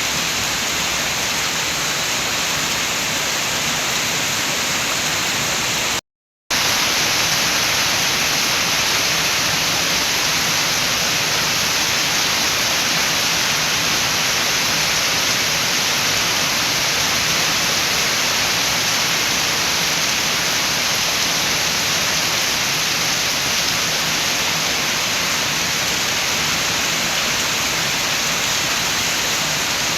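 Steady, dense hiss of rain, cutting out to dead silence for about half a second some six seconds in, then carrying on as before.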